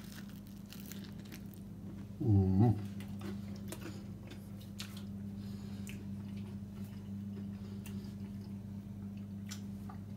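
A man chewing a bite of toasted-bread pizza, with faint crunchy clicks, and a short hummed vocal sound about two seconds in. A steady low hum runs underneath.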